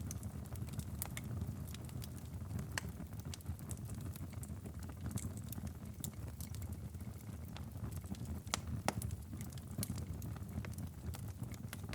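Wood fire crackling in a fireplace: scattered sharp pops and snaps over a steady low rumble, with a few louder pops a little past the middle.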